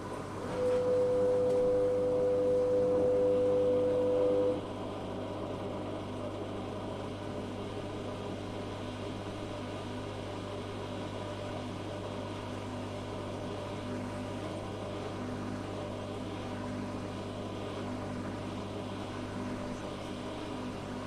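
Zanussi FA623 washing machine turning its drum: the motor runs with a steady whine for about four seconds, starting about half a second in, then stops abruptly, leaving a low steady hum. This on-off pattern is the drum tumbling in stages during a wash.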